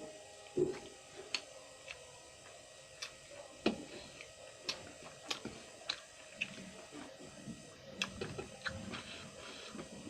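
A person eating close to the microphone: chewing and mouth sounds as irregular sharp clicks and light crunches, about one or two a second, with a few soft low thuds.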